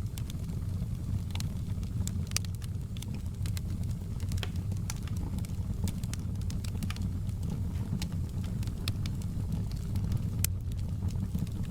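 Wood fire crackling in a fireplace: a steady low rumble of flames with frequent sharp pops and crackles at irregular intervals.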